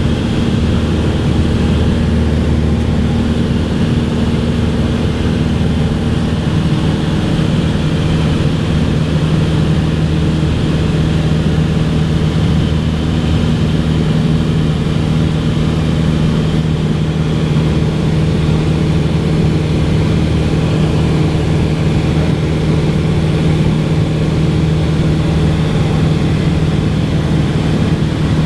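Cessna 182's piston engine and propeller running with a steady, loud drone. The low hum holds one even pitch, with a slight shift in its tone about three seconds in.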